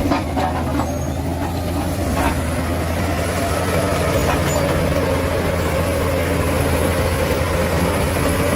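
Bulldozer's diesel engine running steadily, with a slight change in its sound right at the start.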